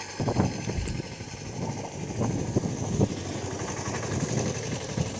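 Wind gusting over the microphone: an uneven low rumble with irregular buffeting over a steady rushing hiss.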